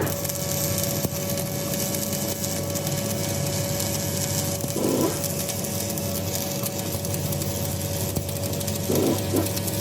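Steady workshop machine noise: a constant hum with one held tone over a hiss, and a couple of brief louder sounds about halfway and near the end.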